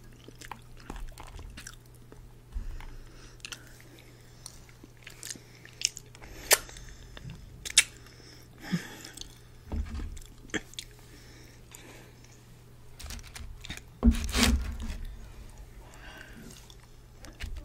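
Close-miked chewing of a fried samosa: wet mouth clicks and short crunches, with a louder burst of mouth noise near the end, over a steady low hum.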